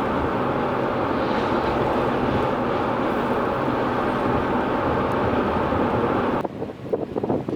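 Steady road and engine noise from inside a moving vehicle, which cuts off abruptly about six and a half seconds in. Gusty wind buffeting the microphone follows.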